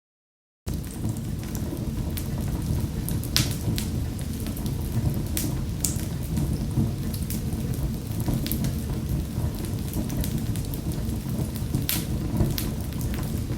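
Wood fire in a fireplace, crackling: a steady low rumble of burning with sharp pops and snaps every second or two. It starts after a brief cut to silence at the very beginning.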